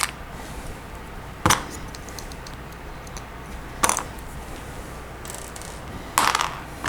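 Plastic Lego Technic pieces clicking and clattering in three short bursts, about two seconds apart, as the set is pulled apart and the pieces are sorted by hand.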